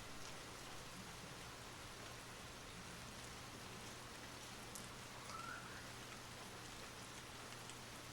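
Steady soft rain falling, an even hiss with scattered individual drop ticks. A brief faint whistle-like tone comes through about five seconds in.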